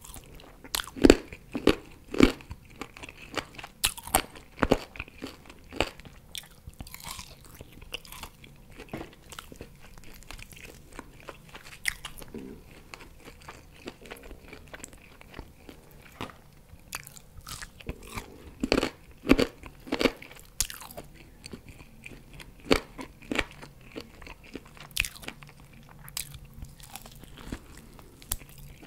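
Close-miked biting and chewing of barbecue pork ribs, with many sharp mouth clicks. The loudest bites come in clusters about a second in, around four to five seconds, and again around nineteen to twenty seconds.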